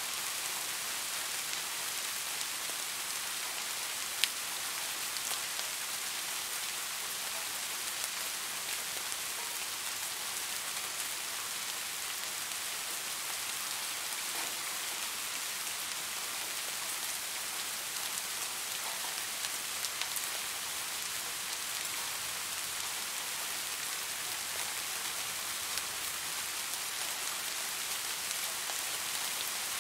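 Steady rain falling: a dense, even hiss of drops, with scattered single drop ticks on top and one sharper tick about four seconds in.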